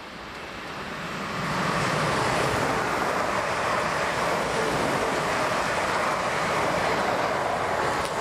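Electric passenger train running through the station at speed. The rush of wheels on rail and air swells over the first two seconds, then holds at a steady loud level as the carriages go by.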